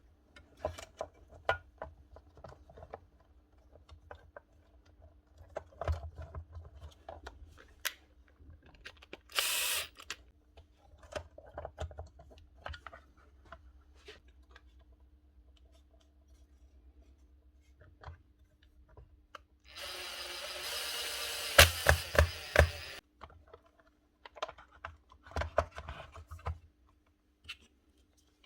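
Hand work on the wiring of a replacement control board: scattered light clicks and knocks of wire connectors and small parts being handled. A short hiss comes about nine seconds in, and a rasping noise with several sharp clicks lasts about three seconds around twenty seconds in. A faint steady hum runs underneath.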